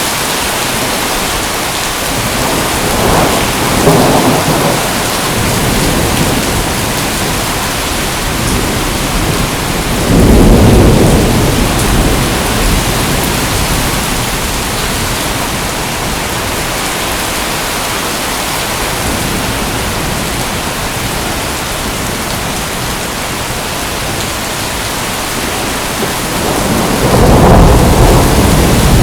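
Steady heavy rain hissing, with three low rolls of thunder: about three seconds in, about ten seconds in, and near the end.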